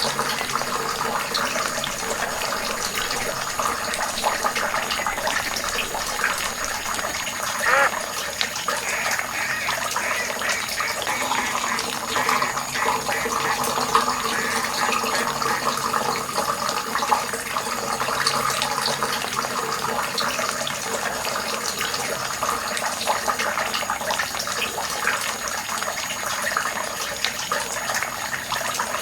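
Water running steadily, as when filling a small miniature pond.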